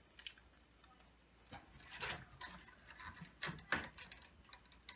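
Hands handling fluorescent-light ballasts and their wiring: a single click, then a run of small clicks, taps and light knocks from hard parts, loudest near the end.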